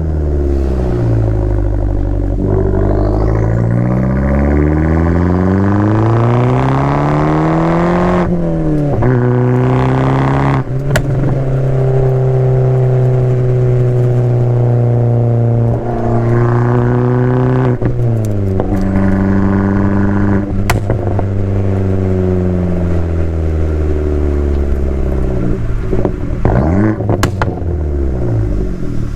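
Abarth 500's 1.4-litre turbocharged four-cylinder running through an El Gato exhaust with a 200-cell high-flow cat. It pulls hard with a steadily rising pitch, then drops sharply at a shift about eight seconds in, holds a steady drone at cruise, and breaks again at further shifts, with a few sharp clicks.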